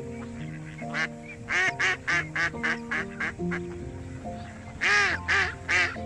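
Duck quacking in quick runs of short calls, the loudest about five seconds in, over background music with held notes.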